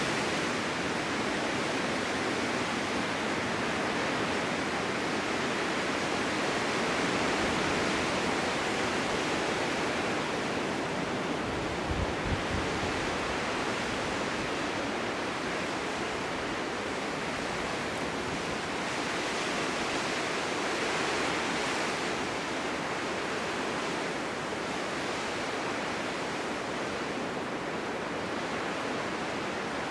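Snowstorm wind blowing steadily, a dense rushing hiss that swells and eases slowly in gusts. A brief low thump comes about twelve seconds in.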